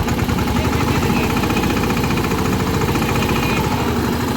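Diesel engine running steadily under light load, stepping up in loudness at the start and then holding an even, low beat.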